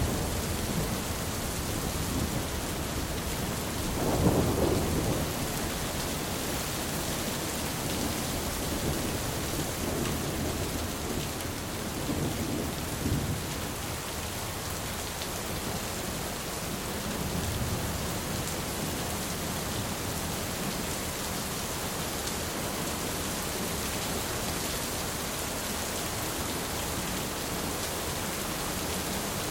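Steady rain with rolling thunder: a low rumble swells about four seconds in, and fainter rumbles follow later under the even hiss of the rain.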